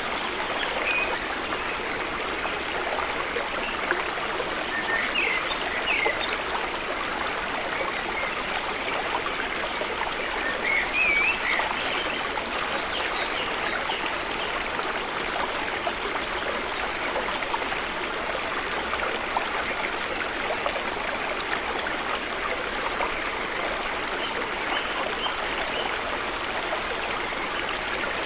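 River water flowing steadily, a continuous rushing babble, with a few brief high chirps now and then.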